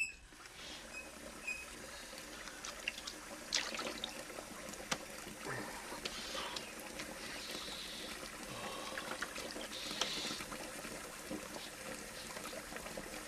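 Water running and trickling, steady, with scattered small splashes and clicks.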